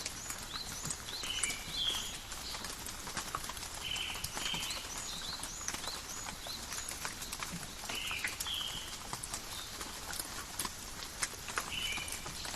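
Steady rain falling in a forest, with many sharp drips landing close by. Short high chirping calls repeat throughout over the rain.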